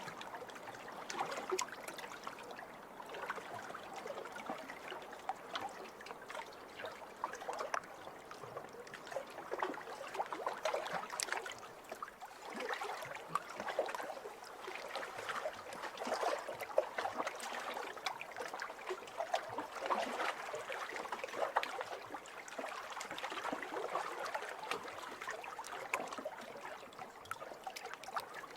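Small waves lapping over a pebble shore: a steady wash of water with fine crackling and trickling as it runs among the stones, swelling and easing every few seconds.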